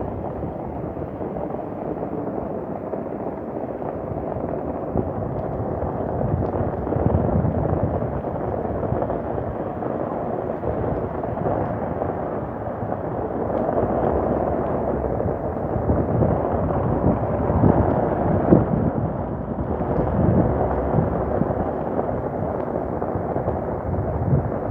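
Thunderstorm with heavy rain: a steady rushing roar with low rolling thunder rumbles that swell and fade several times.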